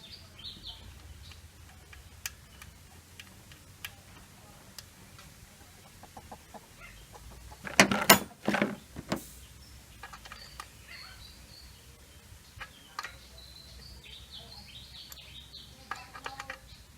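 Scattered light clicks and handling knocks from hand work refitting the fuel hose on the engine, with a couple of loud sharp knocks about eight seconds in. Chickens cluck in the background.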